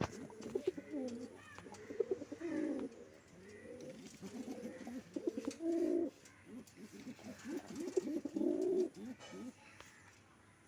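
Several fancy pigeons cooing, their low, rolling coos overlapping and repeating.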